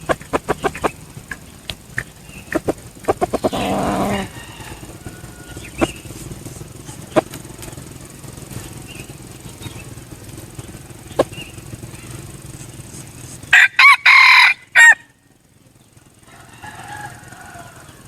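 Junglefowl rooster crowing once, very loud and close, about two-thirds of the way in, with a fainter crow a couple of seconds later. Earlier there is a rapid run of clicks and a short rustling burst.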